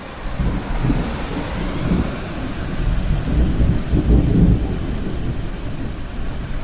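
Thunder rumbling low over a steady wash of ocean surf, coming in suddenly about a quarter second in and swelling to its loudest around four seconds in.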